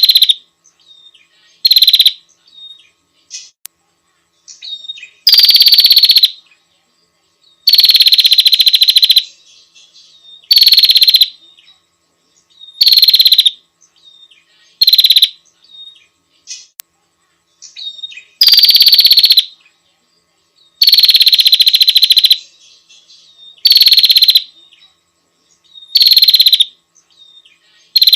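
Female prinia (prenjak) calling to a male: loud, rapid rattling trills that drop from a high start, each half a second to about a second and a half long, repeated every two to three seconds, with fainter short calls between.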